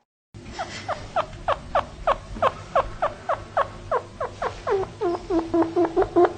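An animal calling in a fast series of short chirps that each fall in pitch, about three to four a second, the later ones ending on a brief held low note.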